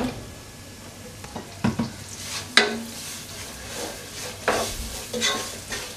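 Onion and ground-spice masala frying in coconut oil in a nonstick pan, sizzling as it is stirred and scraped with a wooden spatula; the spices are being roasted in the oil. Several sharp scraping strokes come about a second and a half in and again near the end.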